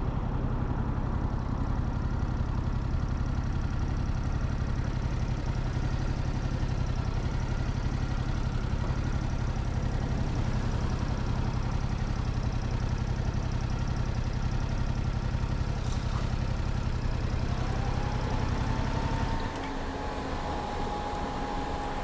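Motorcycle engine running at a steady pitch. Near the end the low engine sound drops away sharply, while a thin tone rises and then holds steady.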